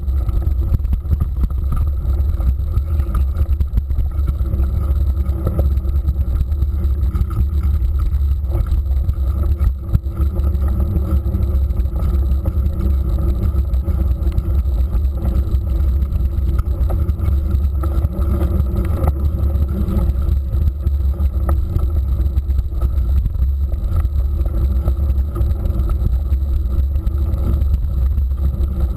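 Steady low wind rumble buffeting the microphone of a camera carried along on a moving mountain bike, with small knocks and rattles scattered through it.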